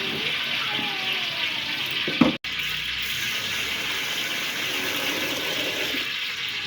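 Water running steadily into a large pot of rice as it is rinsed. The sound is a steady hiss, briefly broken about two and a half seconds in.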